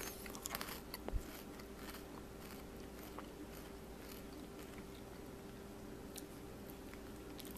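Faint crunching and chewing of crunchy cookie M&M's candy, a few crunches in the first second or so, then mostly a low steady hum.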